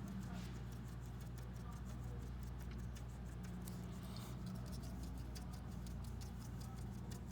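Drawing tip tapping dots onto paper in quick succession, several taps a second, while stippling colour in pointillism. A steady low hum runs underneath.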